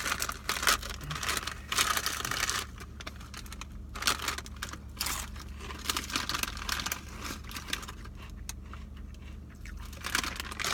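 Foil potato-chip bag crinkling and rustling as it is torn open and handled.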